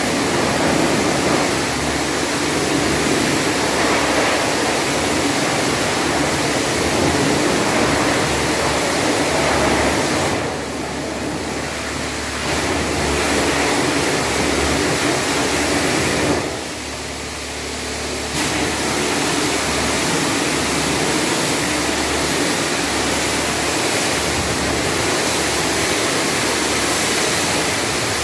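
High-pressure washer spraying water onto an engine bay, a steady hissing rush that drops off briefly twice, about ten and sixteen seconds in.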